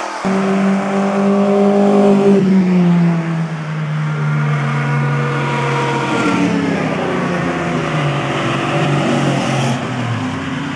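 Car engines running hard on a race circuit, loudest in the first three seconds, with the engine pitch dropping twice as cars go by or lift off.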